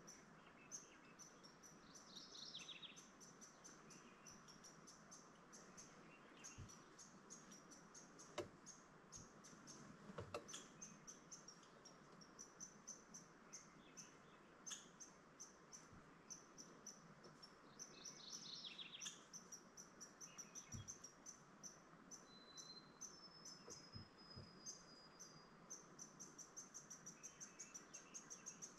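Faint birdsong: a continual run of quick, high chips, with a falling trill twice and one long thin whistle about two-thirds of the way through.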